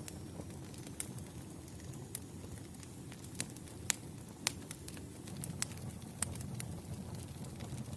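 Wood campfire burning with a steady low rumble of flame and scattered sharp crackles and pops from the logs. The loudest pops come about halfway through.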